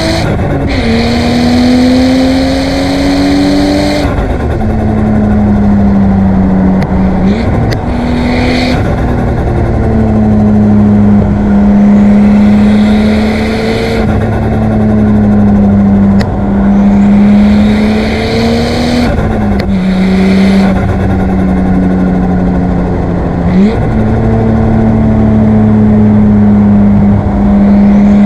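Nissan Skyline R34 GT-T's single-turbo RB25DET Neo straight-six running hard under load. Its note holds fairly steady or creeps up in pitch, then drops sharply several times, around four seconds in, again near twenty seconds and near twenty-four seconds.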